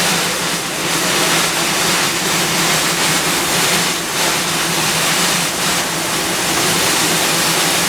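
Frick sawmill running: a steady, loud rushing noise over a low hum.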